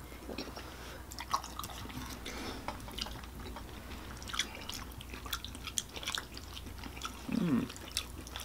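Close-miked eating of spaghetti squash: wet chewing and lip smacks with scattered small clicks from forks, and a short hummed voice sound about three-quarters of the way through.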